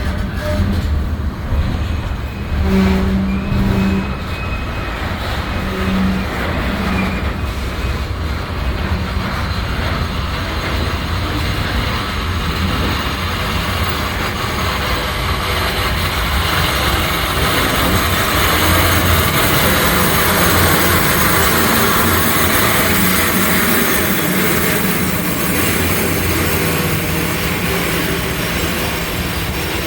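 Freight train rolling on the rails: a steady rumble and wheel noise, with a thin high wheel squeal a few seconds in, growing louder in the second half.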